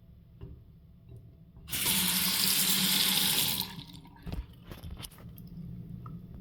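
Water running from a tap for about two seconds, starting and stopping fairly abruptly, followed by a few light clicks and knocks.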